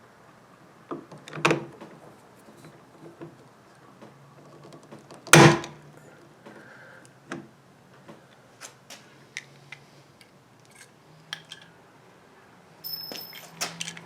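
Hand pop-rivet tool being squeezed, with scattered clicks and knocks and one loud sharp snap about five seconds in as a rivet's mandrel breaks off, setting the rivet.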